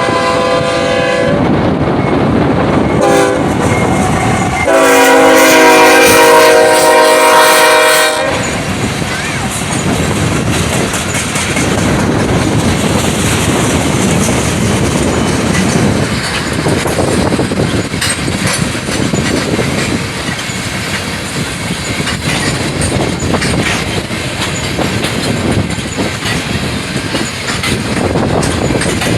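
Locomotive air horn sounding a chord for the road crossing: the tail of a long blast, a short blast about three seconds in, then a long, loud blast from about five to eight seconds. Then the train rolls past with a steady rumble and wheels clacking over the rail joints.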